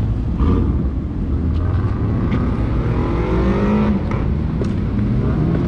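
Lamborghini engine running as the car drives off, with a rev rising in pitch from about two seconds in over a steady low engine note.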